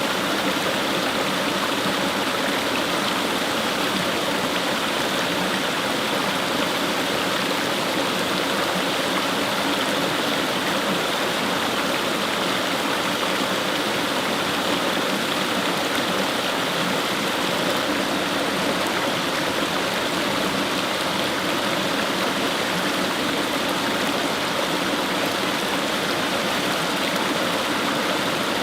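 Fast-flowing brook rushing and splashing over stones in a steady, unbroken stream of water noise.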